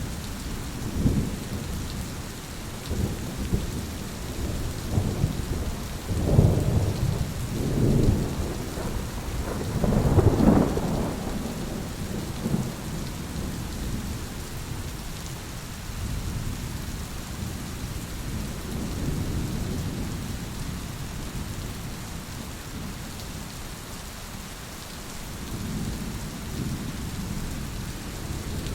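Thunderstorm: steady rain falling with rolling thunder, the rumbles loudest and most frequent in the first half, then easing to a softer roll near the end.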